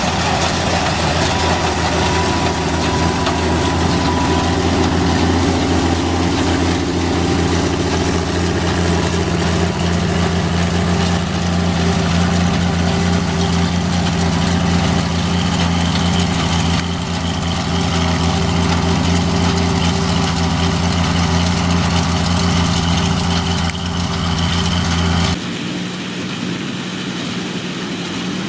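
Tractor engine running steadily while it powers a baler, a loud even drone with a constant pitch. The low rumble drops away abruptly near the end, leaving a quieter steady hum.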